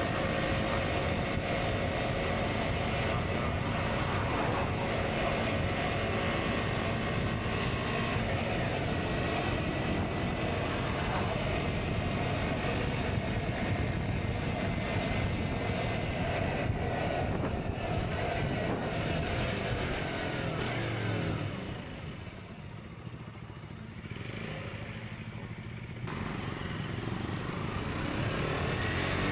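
KTM Duke 125's single-cylinder engine with an Akrapovic exhaust running while the bike is ridden, with wind rush on the microphone. About 22 seconds in the sound drops quieter and the wind hiss fades for about four seconds, then the engine and wind pick back up.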